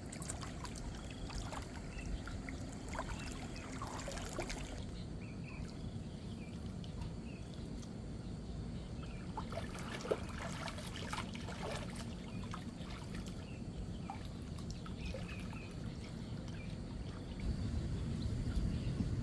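Water trickling and splashing lightly, with scattered drips. The splashing is busiest in the first few seconds and again around ten to twelve seconds in.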